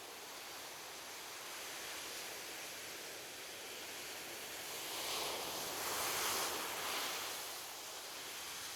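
Gentle ocean waves washing onto a beach: a steady hiss of surf, with one wave swelling louder about five seconds in and then fading back.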